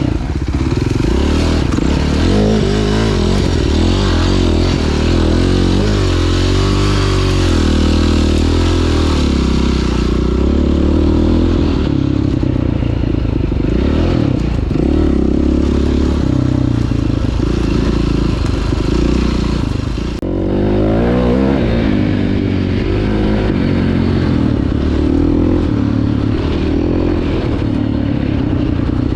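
2009 KTM 530 EXC's single-cylinder four-stroke engine being ridden hard, revving up and down through the gears. About twenty seconds in it drops off the throttle briefly, then pulls again.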